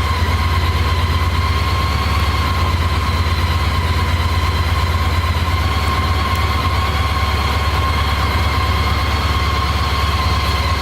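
Honda ST1300's V4 engine idling steadily, a constant low rumble with a steady high whine over it.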